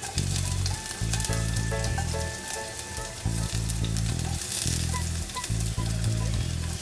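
Chopped onion dropping into a hot pot of whole spices and sizzling, with a fine crackle. Background music with a deep bass line plays over it, stopping and starting.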